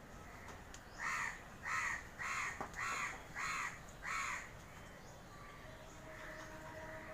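Parrot squawking, six harsh calls in a quick, even series.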